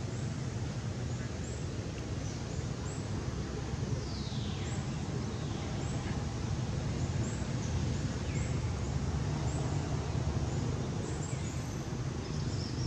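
Outdoor ambience: a steady low rumble and hiss, with a bird's short high chirps repeating every second or so and a couple of falling whistled calls.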